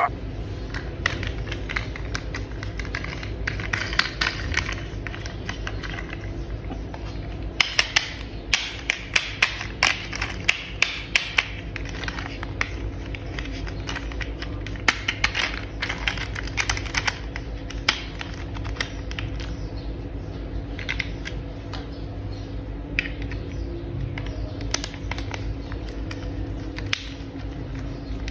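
Hard plastic toy parts being handled and snapped together, with irregular sharp clicks and taps that come thickest in the middle, over a steady low hum.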